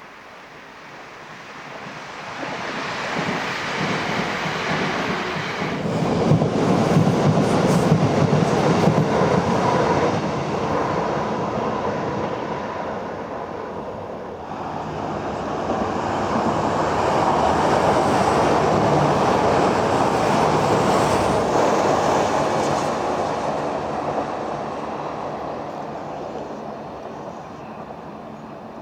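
Train noise at a station platform, swelling and fading twice: loudest about six to ten seconds in, dipping near fourteen seconds, then building again and dying away near the end.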